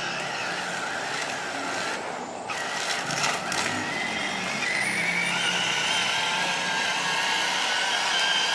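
Radio-controlled bulldozer's small electric drive motors and plastic gearbox whining steadily, with the whine rising in pitch about halfway through.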